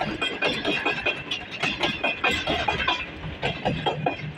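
Passenger train coaches rolling past, wheels clattering rapidly and irregularly over the rail joints with some metallic ringing.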